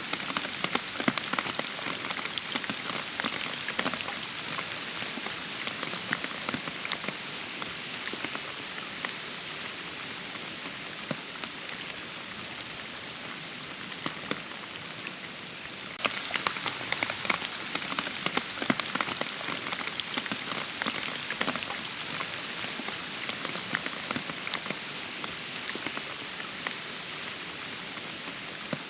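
Steady rain falling, with many separate close drops hitting. The drops thin out and then suddenly grow denser again about halfway through.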